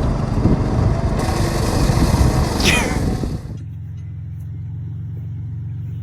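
Lawnmower engine running loud and rough, then about three and a half seconds in the sound drops abruptly to a steady low engine drone.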